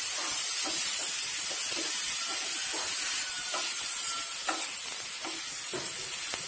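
Broccoli stir-fry sizzling in a frying pan with a steady hiss, while a wooden spatula stirs and scrapes it in irregular strokes.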